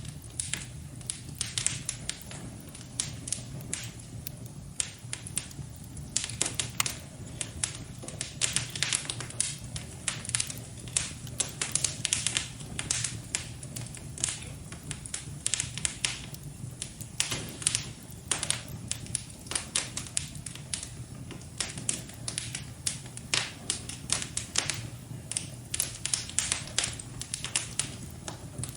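Wood fire crackling in a fireplace: frequent, irregular sharp pops and snaps over a low steady hum.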